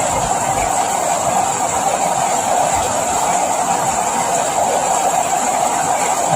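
Steady rain falling, an even, unbroken hiss with no distinct drops or thunder.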